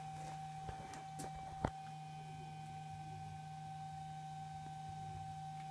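Steady low electrical hum with a thin, constant whine above it, and a single sharp click about a second and a half in.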